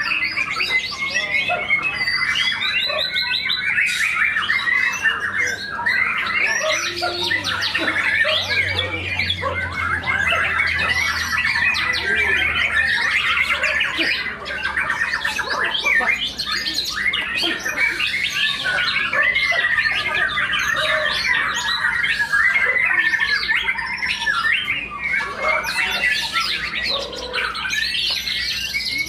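Many caged white-rumped shamas singing at once in a songbird contest: a dense, unbroken tangle of overlapping whistles, trills and chattering calls.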